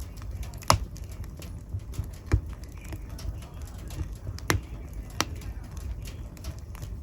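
Wood fire crackling in a fireplace: a low steady rumble of flames with a few sharp, irregular snaps and pops, four of them loud.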